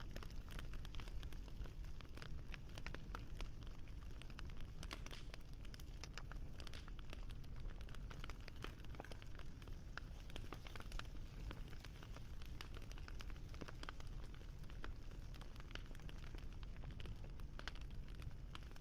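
Fire crackling, with dense irregular pops and snaps over a steady low rumble.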